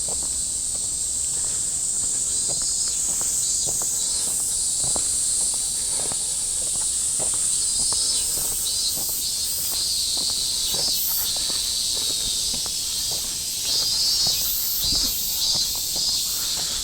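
Cicadas calling, a steady high-pitched buzz with pulsing calls rising and falling over it, and the footsteps of someone walking.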